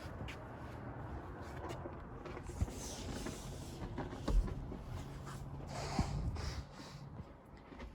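Wind buffeting the microphone in a low rumble, with scattered clicks and knocks, the loudest knock about four seconds in, and two brief hissing swells.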